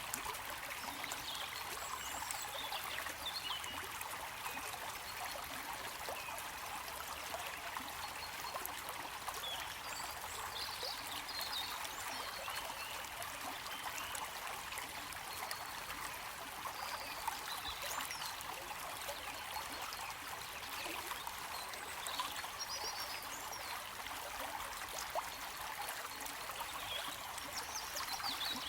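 Running water of a stream, trickling and splashing steadily with no pauses.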